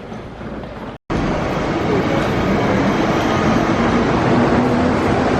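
Prague metro 81-71M train running, a steady rumble of wheels on rail mixed with a faint traction-motor hum, starting abruptly about a second in.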